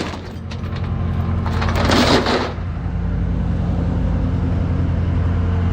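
Engine idling steadily, with a short burst of noise about two seconds in.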